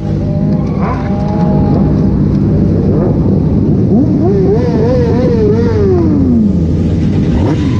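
Motorcycle engine running under throttle. About halfway through its pitch climbs, wavers up and down at the top, then drops back down.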